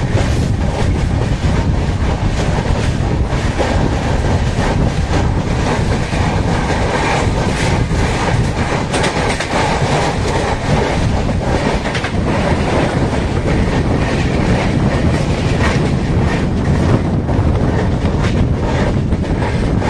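Udyan Express passenger train running at speed, heard from an open coach door: a steady rumble with the repeated clickety-clack of wheels over rail joints. Near the middle a goods train passes close alongside and the clatter grows fuller.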